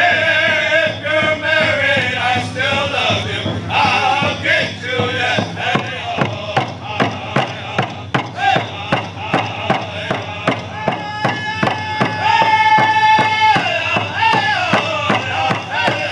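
Powwow drum group singing a round dance song: men's voices chanting together over a steady drum beat of about two strokes a second, with a long held note about twelve seconds in.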